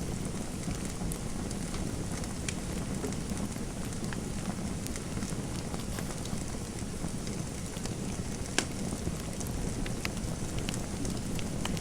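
Fireplace fire crackling: a steady low rush of burning with scattered sharp pops, one louder pop about two-thirds of the way through.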